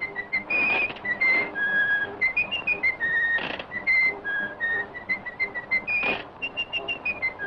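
A whistled melody: a quick tune of short, clear high notes that step and glide up and down in pitch.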